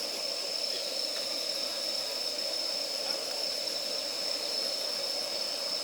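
Campfire of damp firewood burning steadily, with a constant hiss and a steady high-pitched whine, plus a few faint ticks.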